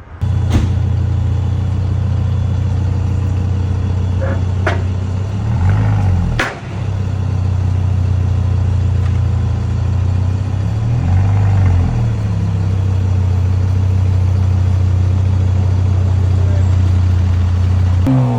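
Genesis GV80 engine idling through a muffler-deleted exhaust: a loud, steady, deep drone. Its pitch briefly rises and falls twice, and a few sharp clicks sound over it.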